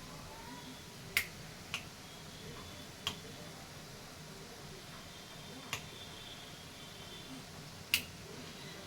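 Five sharp clicks at uneven intervals over a low, steady background hum; the clearest comes near the end.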